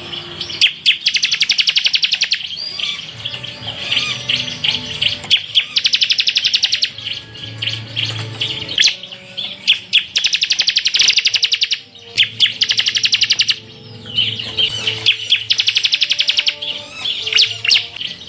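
Bar-winged prinia (ciblek) singing: bursts of very rapid, machine-gun-like trills ('tembakan') lasting a second or two, several times over, with looser high chirps between them.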